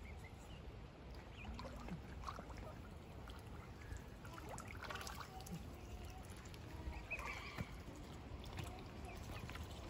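Faint lakeside ambience: a low rumble with an even wash of water noise, and scattered short, faint bird chirps, a few of them close together about seven seconds in.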